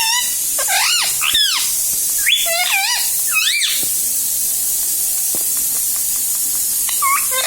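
Pet rose-ringed (ring-neck) parakeet giving a run of short, squeaky calls that rise and fall in pitch, several in the first four seconds, then a pause and another call near the end, over a steady hiss.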